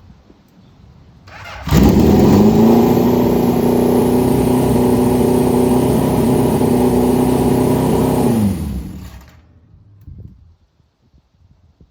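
Multi-carburetor motorcycle engine revved up about two seconds in and held steady at around 3,000 rpm for some six seconds, then dropping back toward idle. The engine is being held at that speed so the carburetors can be checked for balance.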